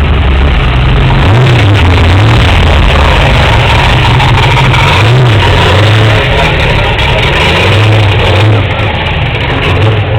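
Loud high-performance car engine idling and being blipped, its pitch swooping up and back down several times, easing back toward idle near the end.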